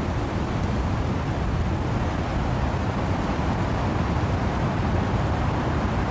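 Steady rushing noise of wind and rain in trees, strongest in the low end, with no separate drops, gusts or other events standing out.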